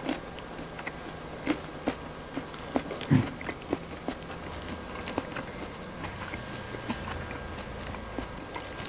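A person chewing fried chicken with the mouth closed, with irregular small crunches and clicks, closer together in the first few seconds and sparser later.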